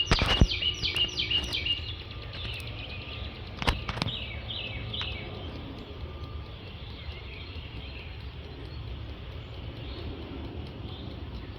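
A small bird chirping in quick runs of short, falling notes, at the start and again about four seconds in, over a steady low background rumble. Two sharp knocks, one right at the start and one a little before the second run of chirps.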